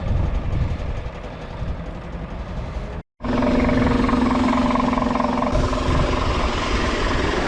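Scania skip lorry's diesel engine running while the lorry is stuck in snow. After a sudden break about three seconds in, the engine is louder, with a steady hum held for a few seconds.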